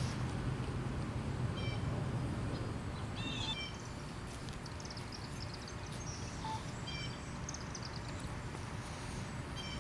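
Outdoor ambience of birds chirping in short, scattered calls over a steady low rumble of background noise.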